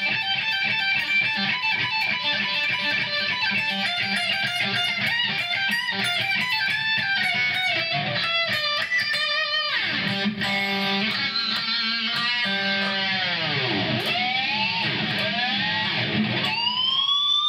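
Electric guitar played through a Kemper amp with a Marshall tone, heard through the room: fast runs of lead notes, then from about ten seconds in notes that swoop down in pitch and back up again several times, with a rising glide near the end.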